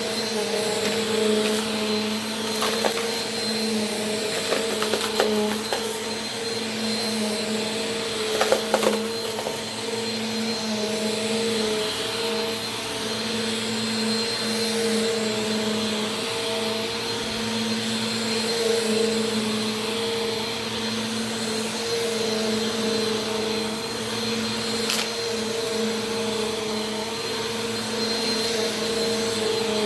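Bissell PowerForce Compact Turbo upright vacuum cleaner running on carpet, a steady motor hum with a high whine over rushing air. A few brief crackles come through in the first nine seconds, with one more click later.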